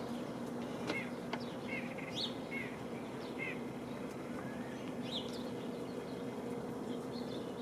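Small wild birds at a feeder chirping: a run of short, high chirps through the first few seconds and a couple more about five seconds in, over a steady low hum.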